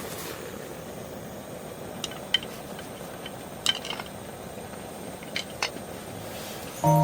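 A few light metallic clinks of camp cookware being handled, about six in all, over a steady low hiss. Plucked-string music starts near the end.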